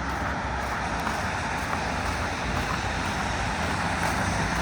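Steady street traffic on a wet road in the rain: vehicles running past with an even wash of noise and a low engine hum.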